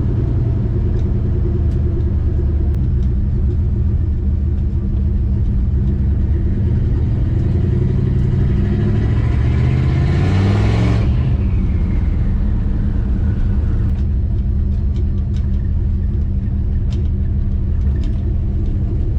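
Turbocharged Chrysler 360 Magnum V8 running while the car is driven, with a steady low rumble. About eight seconds in it accelerates and the GT45 turbo spools up in a rising whine. The whine cuts off sharply about three seconds later as the throttle is lifted, then winds down in a falling whine.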